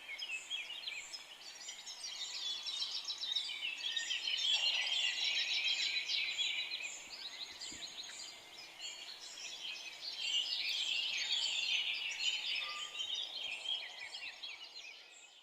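Many forest songbirds singing at once: dense, overlapping chirps and trills. The chorus fades out near the end.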